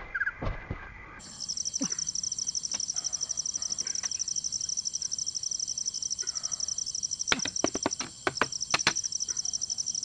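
Insects trilling in a steady, rapid high-pitched pulse, with a quick run of sharp clicks or knocks a little past two-thirds of the way through.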